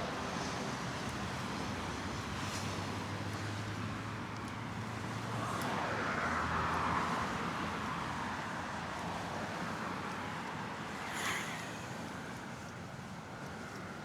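Steady road traffic, with one car passing close by about halfway through, swelling and fading away. A short sharp click comes a little later.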